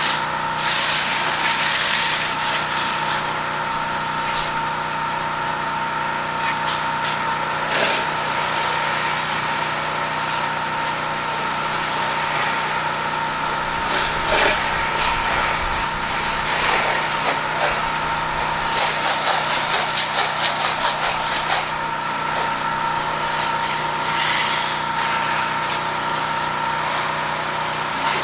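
Pressure washer's engine running steadily with the hiss of the high-pressure water spray rinsing house siding, the spray surging louder now and then.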